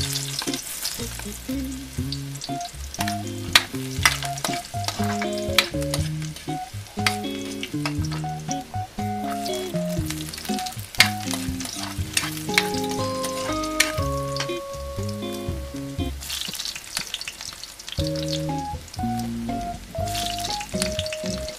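Garlic, ginger and onion sizzling in hot oil in a wok, with sharp clicks and scrapes of a metal spatula against the pan. A background music melody plays over it throughout.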